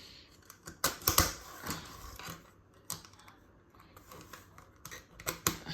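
Plastic LEGO pieces clicking and clattering as they are handled, in irregular sharp clicks with a small cluster about a second in.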